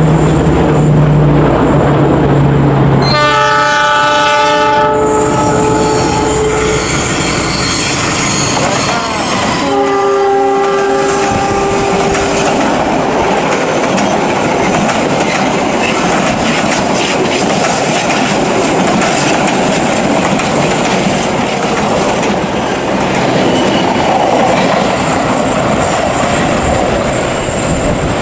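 Argo Parahyangan passenger train passing: the diesel locomotive runs with a low engine note as it approaches and sounds its horn twice, about 3 seconds in and again about 10 seconds in. Then the coaches roll past, with wheel clatter on the curved track.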